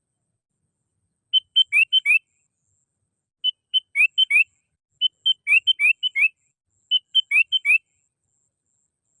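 Sooty-headed bulbul (kutilang) singing: four short phrases of clear, quick whistled notes, several sliding upward, each phrase about a second long with pauses of a second or so between them.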